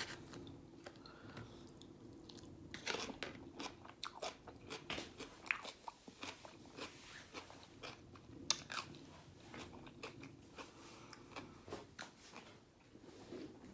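Quiet, close-miked chewing of a mouthful of coleslaw: soft wet crunches and small mouth clicks scattered through.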